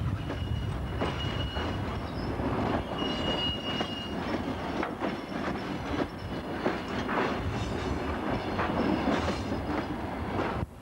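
DR1A diesel multiple unit passing close by, its wheels clattering over rail joints in a continuous rumble. A thin, high wheel squeal sounds for the first four seconds or so.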